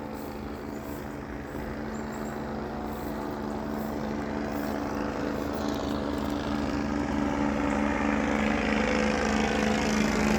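Engine and propeller of a small powered parachute aircraft running steadily, growing louder throughout as it approaches.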